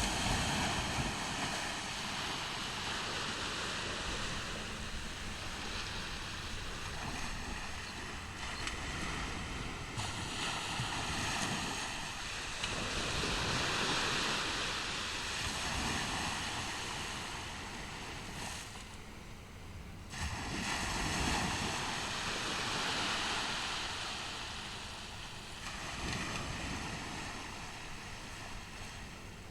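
Ocean waves breaking and washing up on a beach, the surf swelling and fading in three long surges, with wind rumbling on the microphone.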